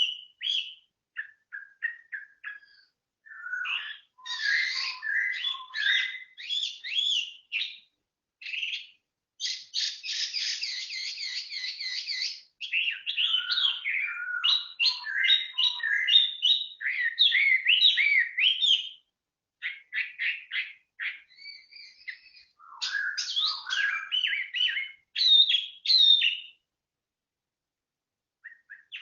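A songbird singing a varied song of quick chirps, whistled slurs and trills, broken by short pauses, with a fast, dense rattling trill about ten to twelve seconds in.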